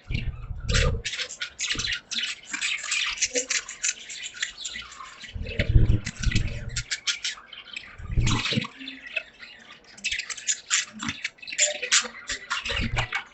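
Budgies chattering: a dense, continuous run of rapid chirps and clicks. Several low thumps break in, near the start, around six and eight seconds in, and near the end.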